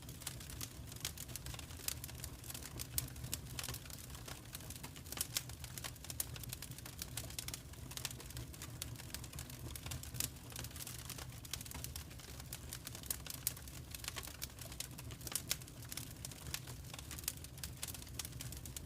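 Wood fire crackling in a fireplace: dense, irregular snaps and pops over a low, steady rumble of the flames, with a few louder pops standing out.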